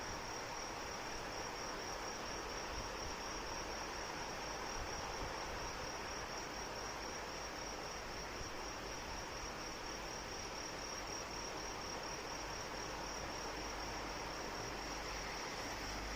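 Crickets trilling steadily in one high, rapidly pulsing note over the even hiss of steady rain. A low rumble comes in near the end.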